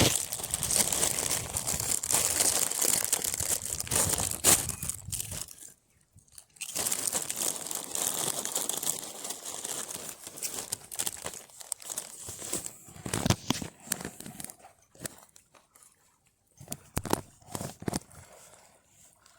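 Plastic crisp packet crinkling and rustling as it is handled. It is dense and continuous for about the first five seconds, stops briefly, then carries on as scattered crackles.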